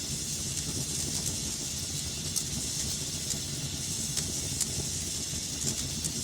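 Wood fire burning in a fireplace: a steady hiss and low rumble with scattered sharp crackles and pops.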